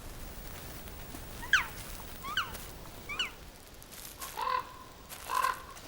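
Wild birds calling: three quick calls that each fall sharply in pitch, about a second apart, then two short, steadier honking calls near the end.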